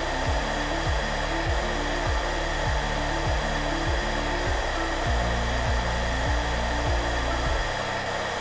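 Hair dryer blowing with a steady, even hiss. Under it runs soft, low background music whose notes change about twice a second and thin out near the end.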